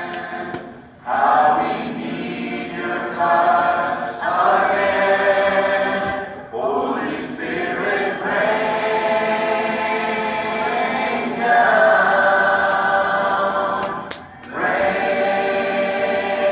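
Several voices singing sustained notes in harmony, a cappella, with three short breaks between phrases.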